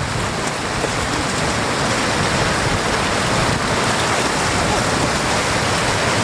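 Floodwater rushing and flowing steadily, an even noise.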